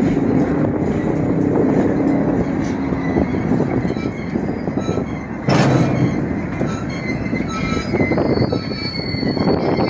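Freight train boxcars rolling past close by: a steady rumble and rattle of steel wheels on rail, with faint high wheel squeals and one loud bang about five and a half seconds in.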